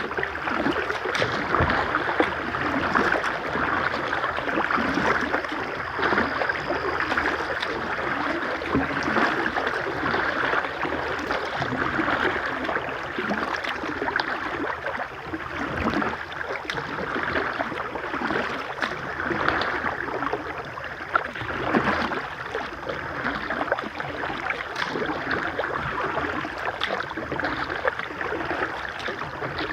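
Steady rush of moving river water around a kayak, with small scattered splashes and knocks.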